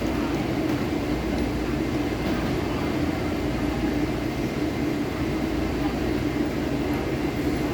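Taipei Metro C381 electric train standing at the platform, its equipment giving a steady, even hum.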